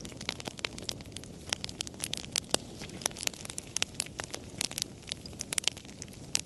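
Wood fire crackling: many sharp, irregular pops and snaps, several a second, over a low steady hiss of burning.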